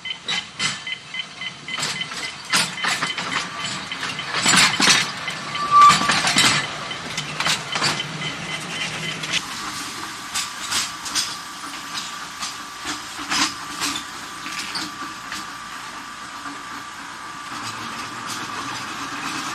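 Electric tram running on its track: irregular clicks and knocks from the wheels and running gear, with a steady whine that comes in about ten seconds in.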